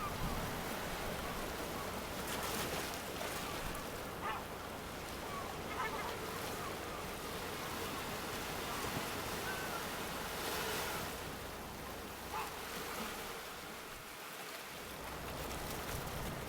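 Sea waves breaking and washing up a shore: a steady rush of surf that swells in hiss a couple of times.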